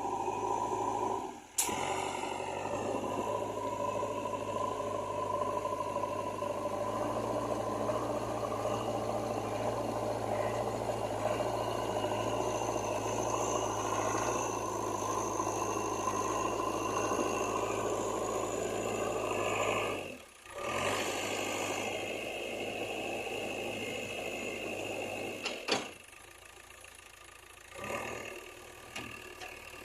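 JCB 3DX backhoe loader's diesel engine running steadily. The sound breaks off briefly twice and is quieter for the last few seconds.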